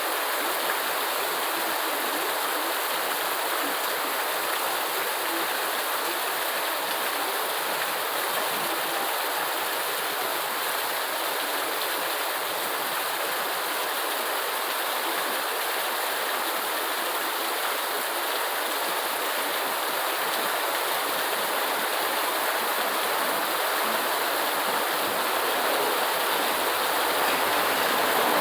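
Steady heavy rain: an even, dense hiss of falling water with no separate drops or thunder standing out, growing slightly louder near the end.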